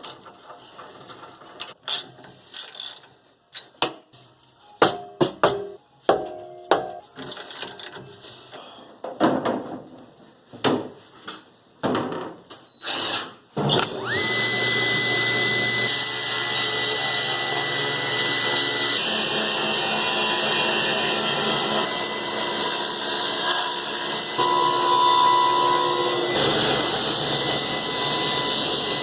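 Scattered metal clanks and knocks from working on a Powermatic table saw. About halfway through, its motor starts with a rising whine and runs steadily.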